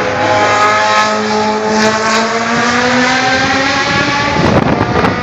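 Vintage Formula One car's high-revving racing engine, its pitch climbing steadily as it accelerates. About four seconds in, a rougher, noisier sound cuts in over it.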